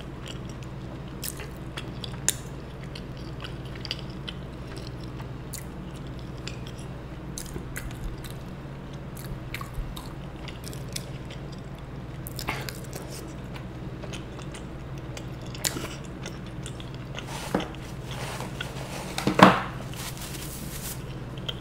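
Close-miked mouth sounds of a person eating soft, syrup-soaked kala jamun: wet chewing with scattered faint clicks and smacks. Near the end there is a louder brushing rustle as a tissue is wiped across the mouth.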